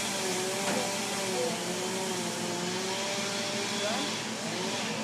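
A motor-driven machine running steadily, with a constant hiss under engine tones that drift slowly up and down in pitch.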